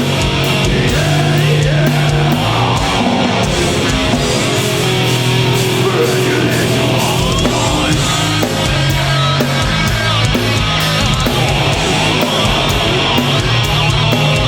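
Live heavy metal / crossover band playing loud, with distorted guitars, bass, fast drumming and yelled vocals.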